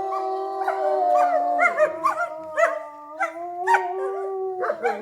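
A pack of wolves howling together: several long howls at different pitches overlap, with short yips and barks breaking in between.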